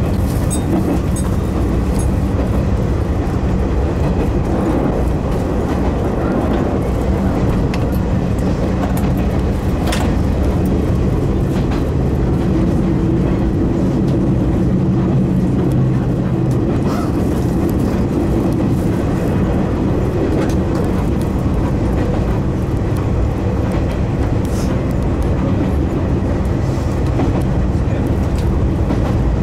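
Izuhakone Railway Daiyuzan Line electric train running along the track, heard from inside the front of the train: a steady rumble of wheels on rail, with a few sharp clicks from the wheels passing over rail joints.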